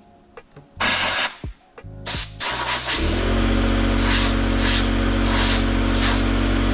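Short hissing blasts from a compressed-air blow gun blowing dust out of an air filter. About three seconds in, an air compressor's motor starts and runs steadily under further blasts of air.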